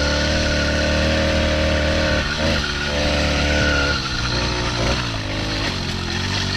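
80cc two-stroke engine on a motorised mountain bike running at high revs under way. Its note holds steady, breaks briefly about two seconds in, then wavers more from about four seconds.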